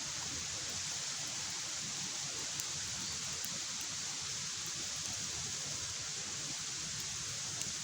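Large log campfire burning with a steady rushing hiss and a few faint sharp crackles.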